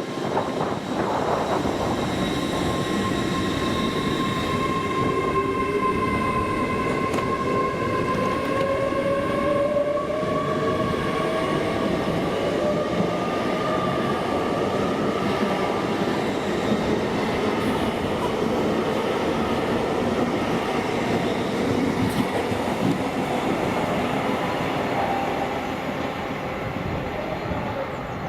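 A train running on the rails: a steady rumbling noise, with a whine that slowly rises in pitch through the middle. It eases off slightly near the end.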